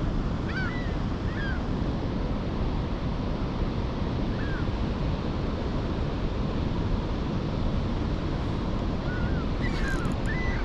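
Steady rushing of water pouring through an opened dam. Short bird calls break in a few times, a couple near the start, one midway and a cluster near the end.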